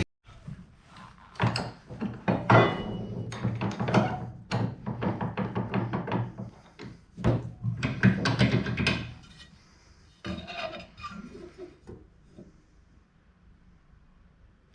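Irregular knocks and clanks of a steel mower blade and metal tools being handled at a workbench, most frequent in the first nine seconds or so, then fewer and softer.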